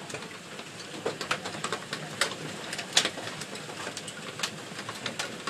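Large hailstones, some as big as golf balls, coming down hard: a steady hiss of falling hail with irregular sharp knocks of individual stones landing, a few louder than the rest.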